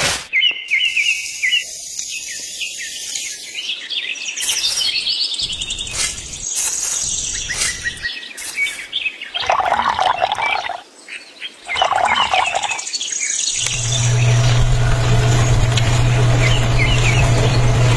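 Small birds chirping, in short quick calls. About three-quarters of the way through, a steady low hum starts and holds.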